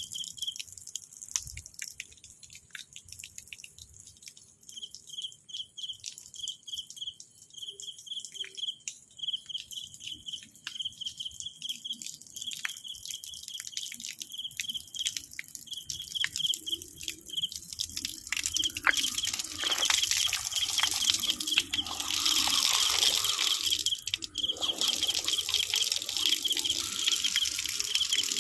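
Insects chirping in a fast, even pulse at one high pitch. About two-thirds of the way through, a louder high shrill hiss joins them, with scattered clicks and rustles throughout.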